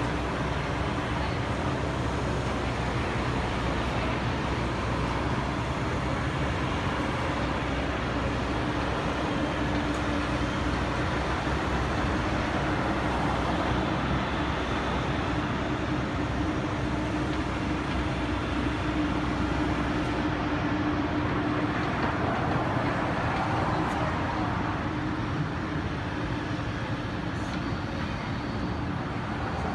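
Steady running rumble of a moving vehicle, with a constant low hum underneath.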